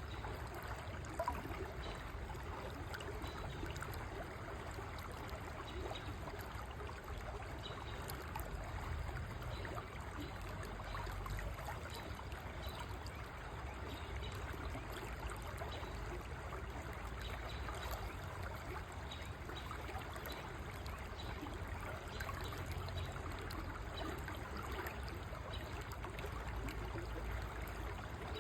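River water flowing: a steady, unbroken rush and trickle of a stream.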